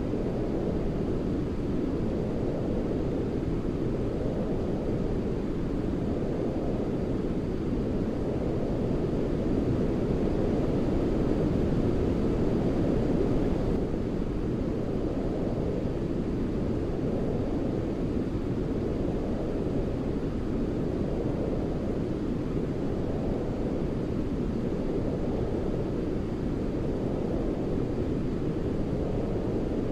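Steady sleep white noise, a deep, even rush weighted toward the low end, with a slow, gentle rise and fall. It swells slightly about ten seconds in and eases back a few seconds later.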